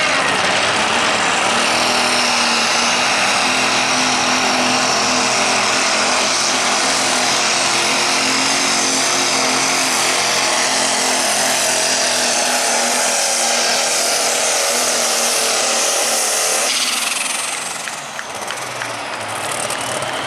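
Super stock pulling tractor's turbocharged diesel engine running flat out under load during a pull. It drops off about seventeen seconds in.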